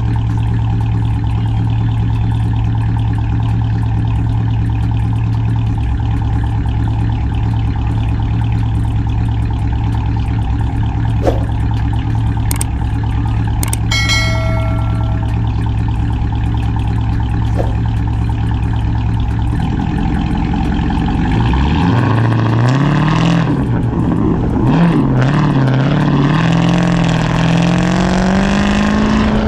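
Cammed Chrysler 300C's Hemi V8 through a catless straight-pipe exhaust, running at a steady low idle, then about twenty seconds in pulling away with the engine note climbing in pitch, dipping briefly near the end.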